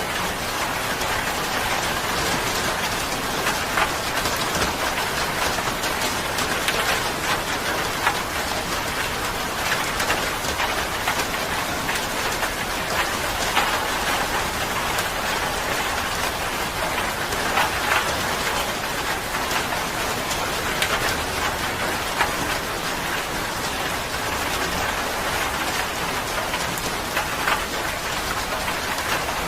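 Steady rain falling, an even hiss with many scattered individual drop ticks on a surface.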